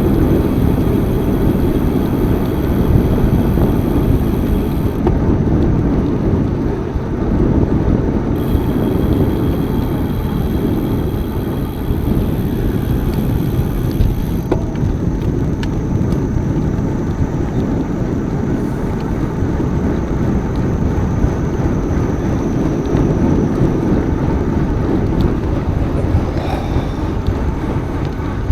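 Steady wind rumble on the microphone while riding a bicycle, loud and low throughout, with a faint high hiss that comes and goes.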